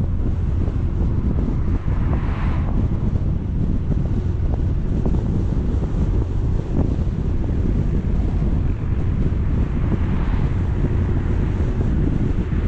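Wind buffeting a GoPro's microphone as a dense, steady low rumble, with two brief swells of higher hiss, one a couple of seconds in and one later on.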